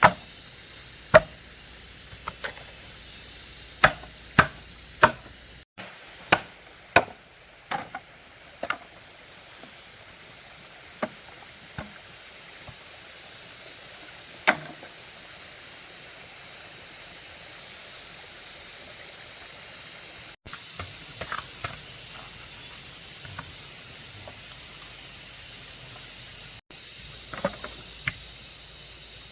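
Irregular sharp blows of a hand tool striking wood, several in quick succession during the first ten seconds and only occasional after that, over a steady high-pitched hiss.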